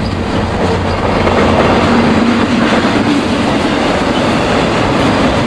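Double-stack container train's well cars rolling past: steady noise of steel wheels running on the rails.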